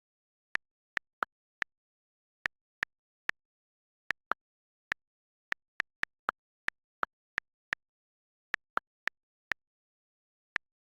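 A string of short, sharp clicks, all alike, at an uneven pace of about two a second, with nothing between them.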